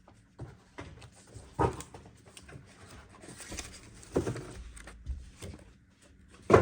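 Scattered clicks, knocks and rustles of small parts and packaging being handled while a PC is assembled, with a few sharper knocks.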